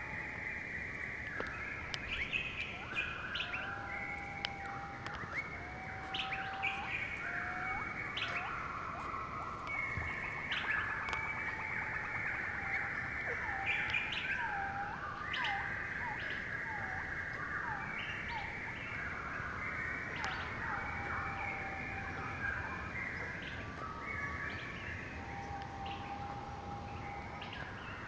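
Several forest birds singing at once: a dense chorus of chirps and trills, with a lower whistled note repeated at intervals and a quick run of short hooked whistles about midway.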